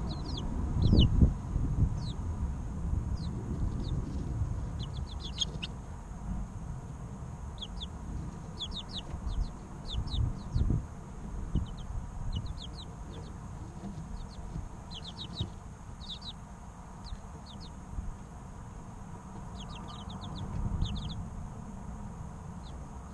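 Three-week-old chicken chicks peeping: many short, high, quickly falling chirps in scattered clusters. Underneath runs a low rumble with thumps, loudest about a second in.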